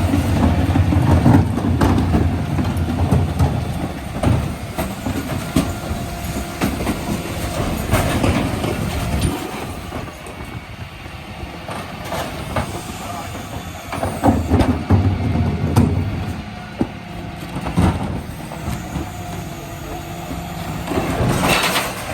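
Dennis Elite 6 refuse truck working a recycling collection: its engine and bin-lift hydraulics run louder for two long stretches, with repeated knocks and rattling clatter as bins are lifted and emptied.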